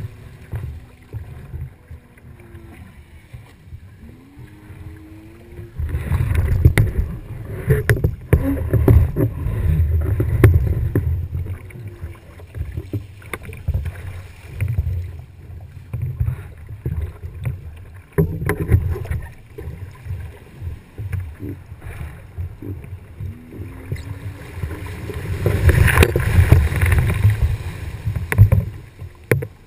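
Boat under way, with water rushing along the hull and a low rumble of wind and water. The rumble swells strongly about six seconds in and again near the end.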